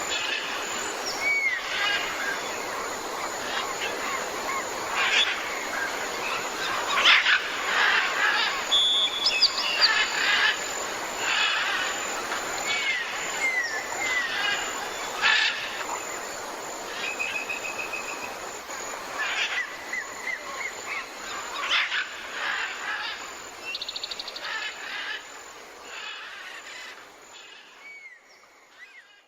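Outdoor nature ambience: birds chirping with short pitch glides and brief trills over a steady hiss with scattered crackles, fading out near the end.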